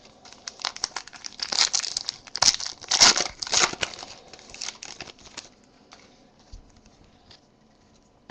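A foil trading-card pack wrapper being torn open and crinkled by hand, busiest in the first five seconds, then dying down to a few light handling ticks.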